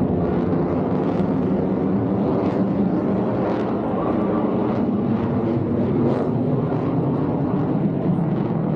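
Fighter jet engines running during an air show flying display, a steady loud rumble with no clear rise or fall.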